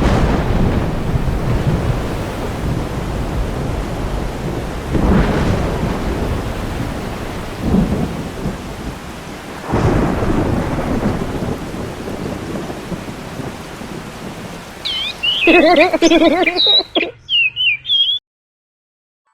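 Rain falling steadily, with thunder rolling in three times. Near the end there is a brief burst of warbling chirps, and then the sound cuts off abruptly.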